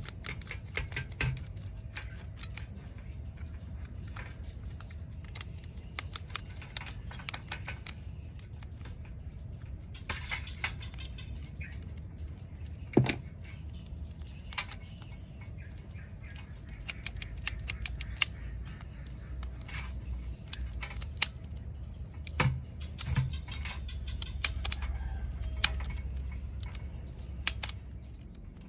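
Irregular small clicks, taps and rattles of hands and tools handling small hard parts, sometimes in quick clusters, with a few louder knocks, over a steady low hum.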